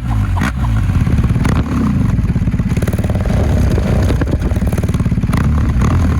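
BMW R 1250 GS boxer-twin engine running through a Jekill and Hyde Nomad valved exhaust, revving up and down with a steady pulsing beat.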